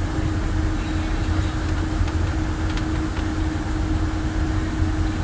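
Steady low machinery hum with a constant droning tone over it, typical of a warship's engines and ventilation running.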